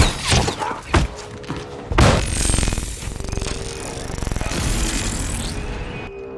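Film action soundtrack: three heavy hits about a second apart with shattering and gunfire, followed by a long noisy rush as the orchestral score's held tones come in.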